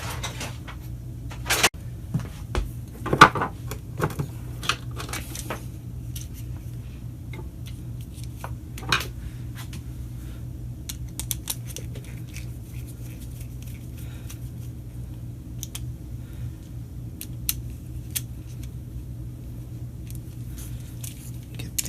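Small clicks and taps of a replacement extension-cord plug and small tools being handled, most frequent and loudest in the first few seconds, over a steady low hum.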